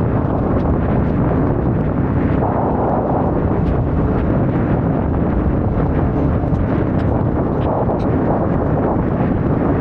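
Yamaha Ténéré 700 parallel-twin motorcycle being ridden, its engine running steadily under heavy wind buffeting on the microphone.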